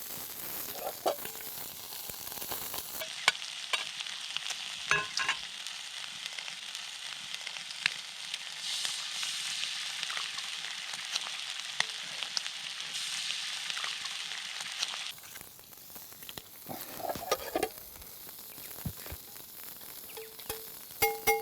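Food frying and sizzling in a pan, with small scrapes and clicks of a utensil stirring it. The sizzle turns louder and hissier for about twelve seconds in the middle, and a few clinks come near the end.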